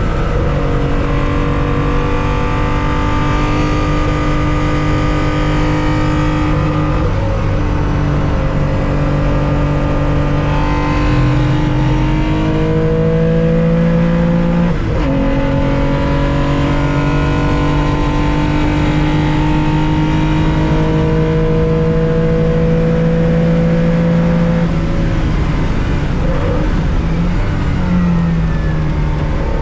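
Onboard sound of a 1965 Porsche 911 2.0's air-cooled flat-six under hard acceleration. The engine note climbs steadily through each gear, with upshifts about seven, eleven and fifteen seconds in. Near the end the note drops and wavers as the car slows.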